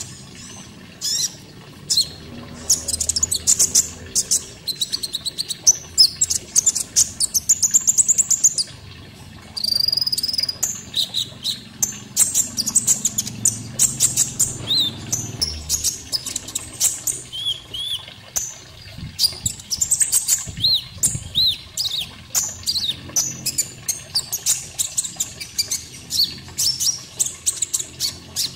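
Konin bird singing a fast, busy song of sharp chirps, quick trills and short rising whistles, repeated many times a second, as on a birdkeepers' training (masteran) track.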